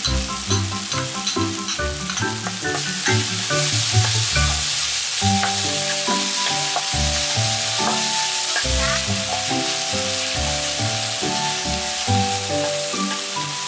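Chopped microgreen leaves and onion-tomato masala sizzling in a non-stick frying pan as a wooden spatula stirs and scrapes them, the sizzle filling in about three seconds in. Background music with held melodic notes plays alongside.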